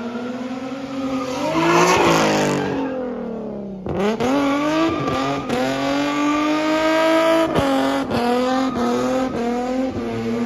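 Car engine revving hard with tire squeal, as in a burnout or drift. The engine note climbs, with a loud screeching rush about two seconds in. It cuts out suddenly just before four seconds, then comes back and holds high, with short dips.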